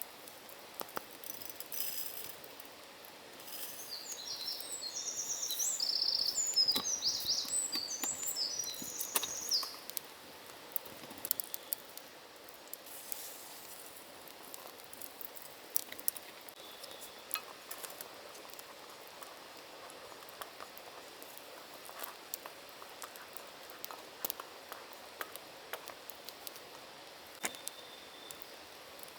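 A songbird singing a rapid, jumbled run of high notes for about six seconds, starting a few seconds in, over a steady faint background hiss of forest ambience with scattered small clicks and ticks.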